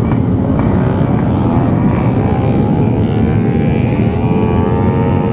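Yamaha RX King 135cc single-cylinder two-stroke engine with an aftermarket side-mounted expansion-chamber exhaust, running under way. Its buzzing note rises over the first couple of seconds and then holds steady over a dense low rumble.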